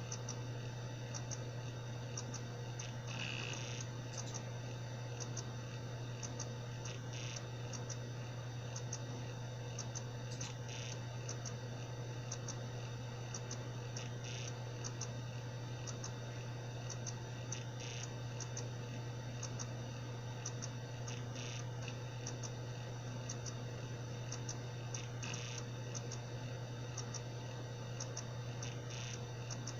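Seagate Barracuda 7200.7 80 GB hard drive running with a steady low spindle hum and a regular ticking about twice a second, with a louder click about every three and a half seconds. This is the abnormal clicking of a faulty drive.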